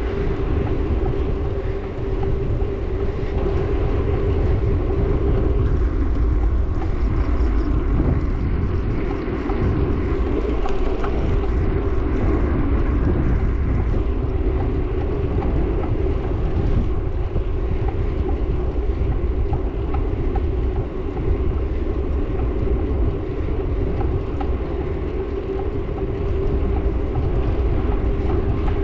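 Riding a bike along a road: heavy wind rumble buffeting the microphone over a steady running drone, with no breaks or sudden events.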